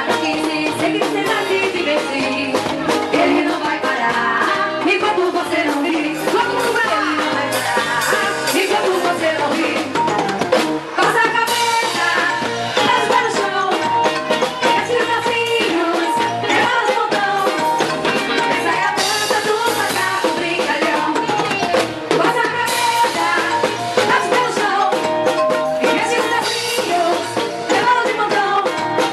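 Upbeat band music with a drum kit and singing, playing without a break.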